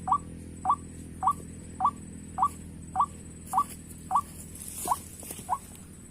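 White-breasted waterhen calls: a short rising 'kwak' note repeated monotonously, a little under two a second.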